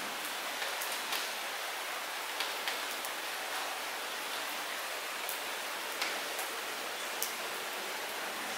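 Light rain falling in a steady hiss, with scattered single drops ticking sharply on a near surface every second or so.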